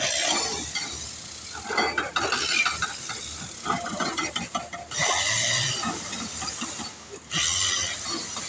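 Crawler drilling rig at work: loud blasts of compressed-air hiss that come on suddenly three times, over irregular mechanical clatter.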